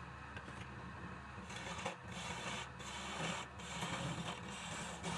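Wood lathe running with a steady motor hum, and a turning tool scraping into the spinning wood in uneven bursts from about a second and a half in.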